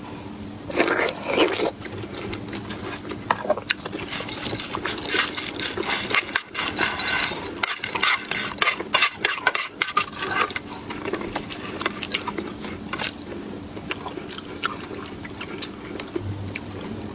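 Close-miked mukbang eating: biting and chewing with many irregular sharp crunches and clicks, busiest in the middle, with light scrapes of utensils against dishes.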